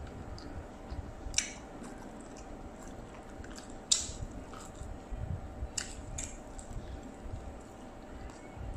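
Close-up chewing and wet squishing of a mouthful of fried rice vermicelli eaten by hand, with a few sharp mouth clicks; the loudest comes about four seconds in, as a fresh mouthful of noodles goes in.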